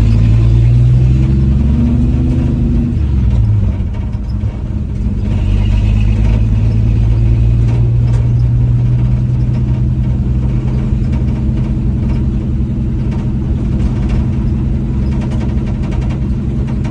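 1967 Dodge D100's 225 slant-six engine running under way, its note climbing over the first few seconds, then dropping with a brief dip in loudness a little over three seconds in before running steady.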